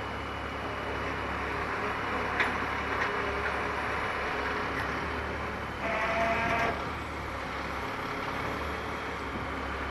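Caterpillar 336E excavator running steadily as it works, with a sharp knock about two and a half seconds in and a short high squeal just under a second long near the middle.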